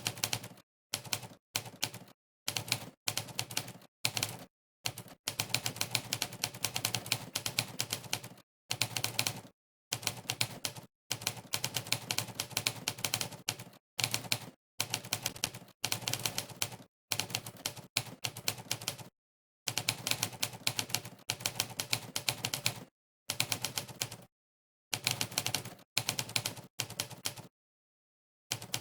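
Monkeytype's typewriter keypress sound effect: rapid typewriter-style key clacks, one per keystroke, in runs from under a second to several seconds long, broken by short gaps of dead silence where typing pauses.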